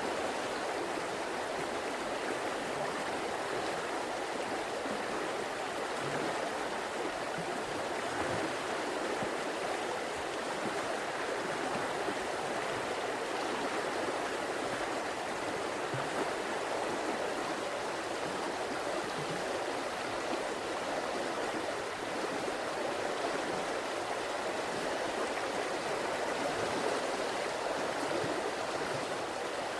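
River water flowing and burbling steadily over rocks.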